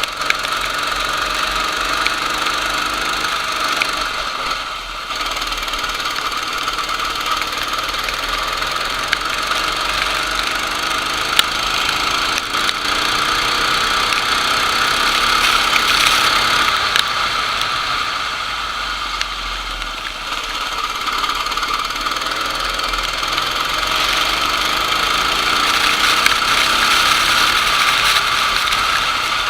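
Go-kart engine running under race load, its pitch rising and falling with the throttle through the laps.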